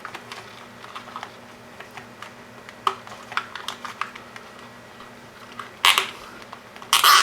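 Small plastic clicks and taps from handling wires and parts, then two short rasping bursts, about six and seven seconds in, from nylon zip ties being pulled tight around the cables.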